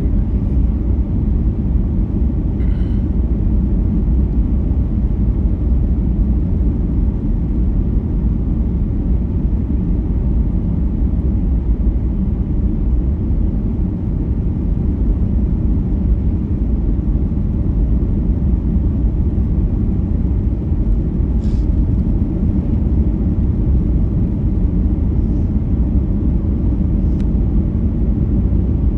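Steady low rumble of an airliner cabin: engine and airflow noise heard from inside the passenger cabin.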